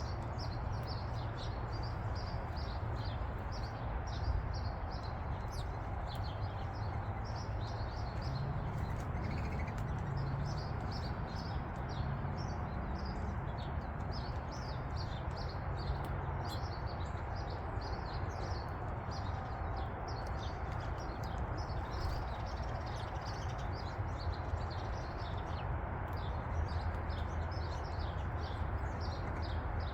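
Small songbirds chirping continuously in quick, short, high notes over a steady low background rumble.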